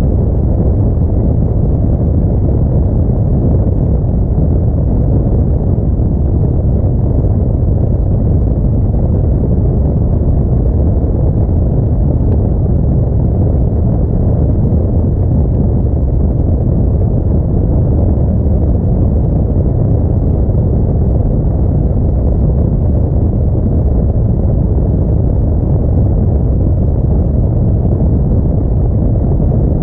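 Audi A4 driving on a snow-covered road: a steady, deep rumble of tyre, engine and wind noise that stays even with no change.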